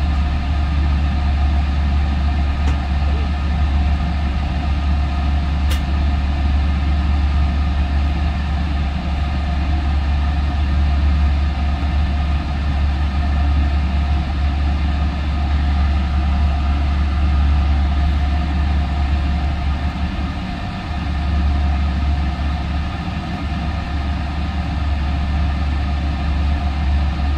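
Steady low rumble and drone of a Trinity Railway Express commuter train running, heard from inside the passenger car, with a few faint steady tones above it.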